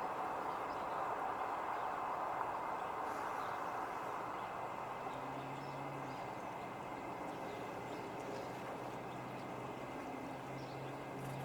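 Steady hum of vehicle noise, with a low engine drone joining about halfway through.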